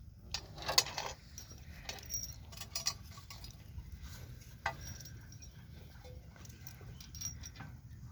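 A few light metallic clinks and knocks, irregular and bunched in the first three seconds with one more near the middle, over faint low background noise: tools and metal parts being handled while a power tiller is repaired.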